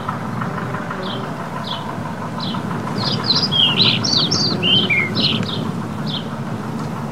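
A small bird chirping repeatedly, a short high chirp about every two-thirds of a second, breaking into a quick run of varied chirps and trills in the middle. Underneath is a steady background rumble.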